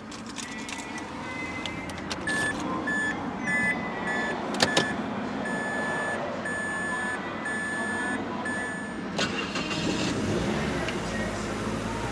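The car's warning chime beeps repeatedly for several seconds with a sharp click among the beeps, then about nine seconds in the 2006 Mazda3 S's 2.3-litre four-cylinder cranks and starts, settling into a fast idle around 2,000 rpm.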